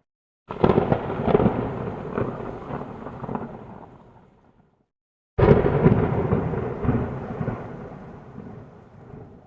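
Two separate peals of thunder. Each starts suddenly and rolls away over about four seconds, and the second begins about five seconds in.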